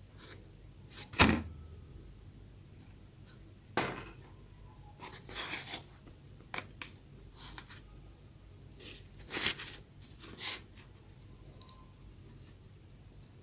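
Eating and handling of soft filled bread: scattered soft tearing, squishing and mouth sounds, with a sharp thump about a second in and another near four seconds.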